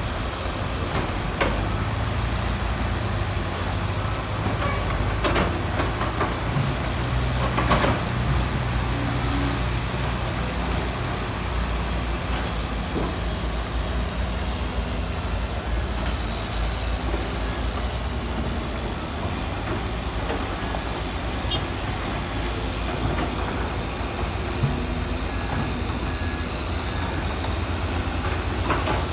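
Heavy diesel construction machine engine running steadily, with a few sharp metallic clanks, the loudest about eight seconds in.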